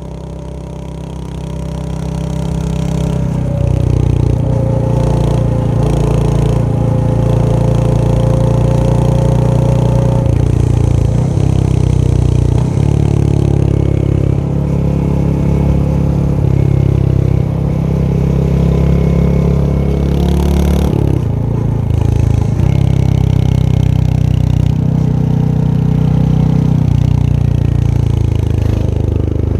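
Royal Enfield Hunter 350's single-cylinder engine running under way, its pitch rising and falling as the rider works the throttle and gears. The sound fades in over the first few seconds.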